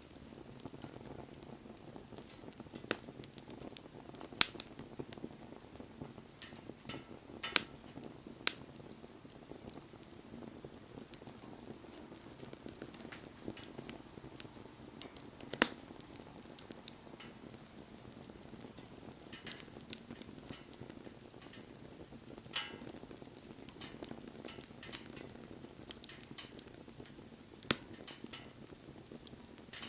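Wood bonfire burning: a steady low hiss of flames with irregular sharp crackles and pops, about half a dozen loud snaps scattered through the stretch.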